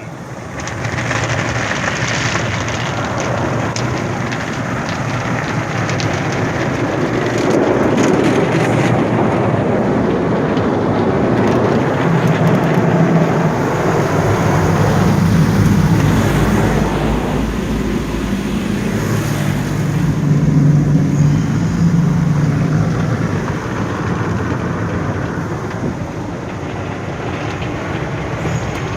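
Automatic car wash equipment running: water spraying and washing machinery working on the car, a steady loud wash of noise with a low motor hum that swells through the middle.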